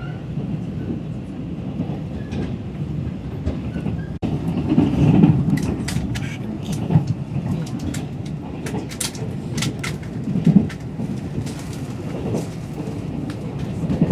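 Passenger train running on the rails, heard from inside the carriage: a steady low rumble with irregular clacks and rattles, louder from about four seconds in and most clattery in the middle.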